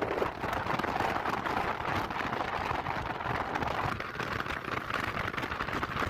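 Steady rushing noise of a car being driven, a rough haze dotted with fine crackles and with no clear engine tone.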